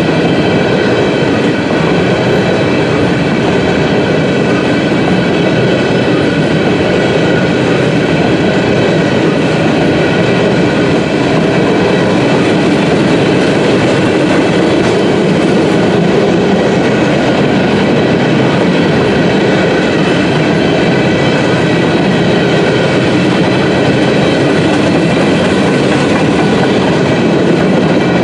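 Norfolk Southern freight train's gondola cars rolling past at close range: a continuous loud rumble and rattle of cars and wheels on the rails, with steady high ringing tones over it.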